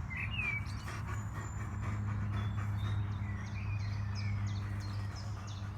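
Small birds chirping and singing, ending in a quick run of short repeated notes, over a steady low rumble.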